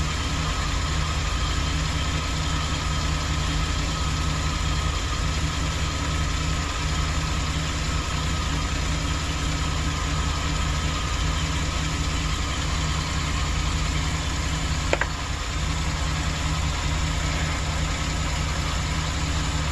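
2008 Chevrolet Express van's gasoline engine idling steadily, an engine being diagnosed for a misfire. A single sharp click sounds about fifteen seconds in.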